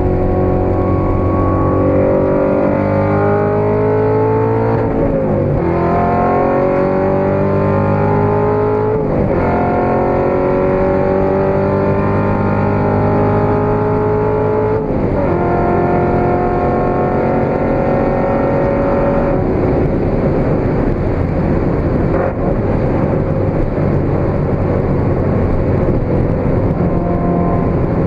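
Supercharged 6.2-litre V8 of a tuned Corvette C7 Z06 with a Capristo exhaust, pulling hard under acceleration. The engine note climbs and drops back at three upshifts, about five, nine and fifteen seconds in. From about twenty seconds on it holds a steady pitch, mixed with road and wind noise, at high cruising speed.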